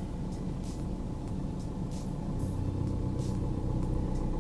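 Car engine running, heard from inside the cabin as a low, steady hum while the car pulls away slowly on the clutch. The hum grows a little louder from about halfway through.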